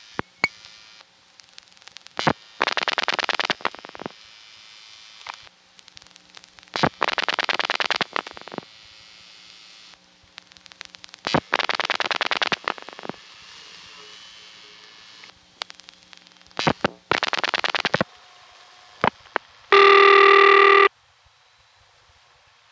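Telephone line audio of a GTE call being dialed on a rotary phone: bursts of rapid dial-pulse clicks, with quieter pulses in between from the 102 director system dialing while the caller dials. Near the end a buzzy ringback tone sounds once for about a second.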